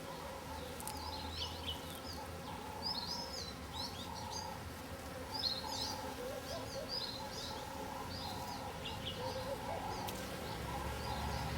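Small songbirds chirping: short, high chirps in quick clusters, thinning out near the end, over a steady low hum.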